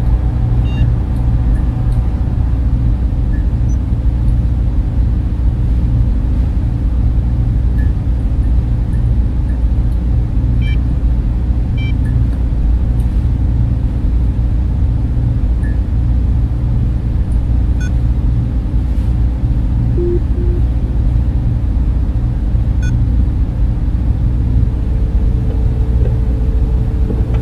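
Server room cooling fans running in a steady, unbroken whir over a deep low hum, with a few faint ticks; a slightly higher steady tone joins near the end.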